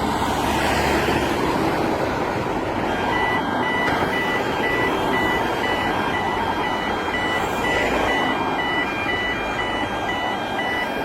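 An opening-bridge warning signal beeping in an even repeating rhythm, about two beeps a second, starting about three seconds in, over steady background noise.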